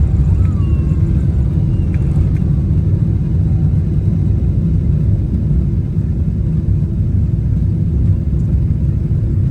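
Steady low rumble of a Boeing 777-300ER's cabin as the airliner taxis or takes off, with a few faint thin sliding whistles in the first couple of seconds.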